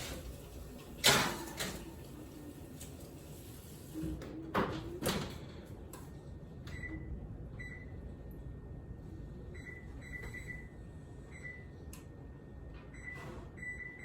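Kitchen clatter of a few sharp knocks from dishes and cupboards, then a run of short electronic beeps from a kitchen appliance's keypad as its buttons are pressed to set it cooking.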